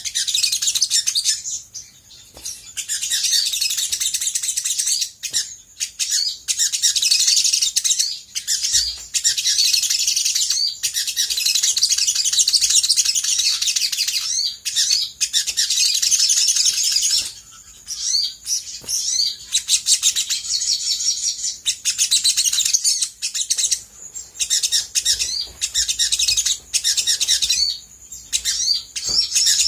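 Olive-backed sunbird singing a rapid, high-pitched chattering song in long, fast phrases broken by brief pauses. It is a vigorous song of the kind played as a lure call to make other birds answer.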